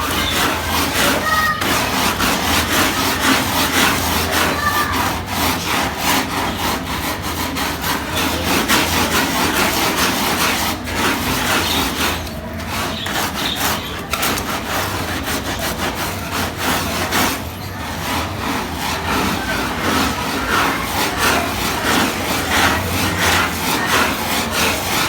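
Rapid back-and-forth scrubbing of a soaked, heavily soiled carpet, a continuous scratchy rubbing that pauses briefly twice.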